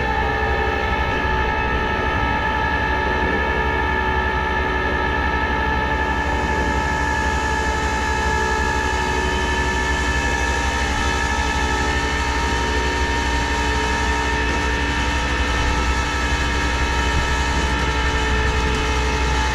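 Rollback tow truck's hydraulic pump whining steadily at raised engine speed over a low engine rumble, as the bed and winch work to load a car; near the end the whine slides down in pitch as it winds down.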